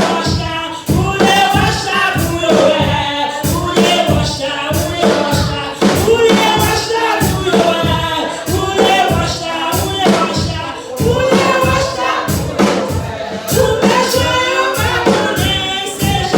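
Worship singing by a group of voices over a steady percussion beat.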